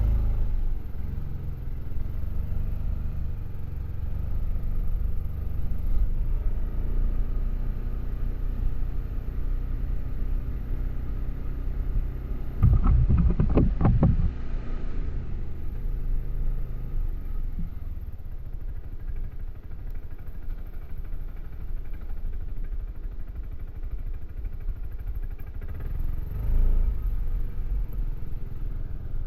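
Suzuki Burgman AN400 maxi-scooter's single-cylinder four-stroke engine running through its stock exhaust while riding, a low steady drone that rises and falls a little with speed. About halfway through, a louder rough rattling rumble lasts a couple of seconds.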